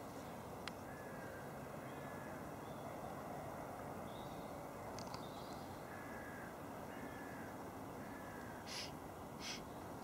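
Birds calling over a steady background hiss: a scatter of faint short calls, then two louder harsh calls about a second apart near the end.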